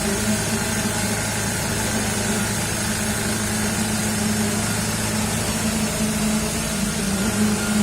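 Diesel engine of a truck-mounted concrete pump running steadily at a constant speed, with an even low hum.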